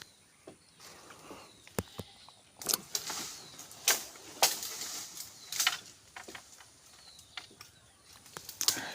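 Leafy branches being handled: irregular rustling and swishing, broken by a handful of sharp snaps or strokes, the loudest about four seconds in.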